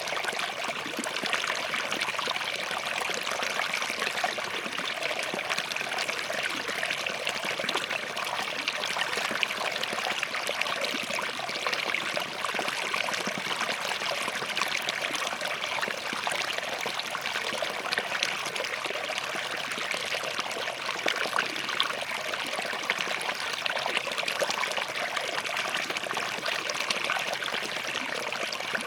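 Small forest stream running over and between rocks, a steady babbling and trickling.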